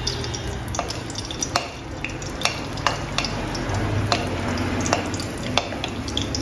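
Green chillies sizzling in hot ghee in an aluminium kadhai, stirred with a wooden spoon that knocks sharply against the pan about eight times at irregular intervals.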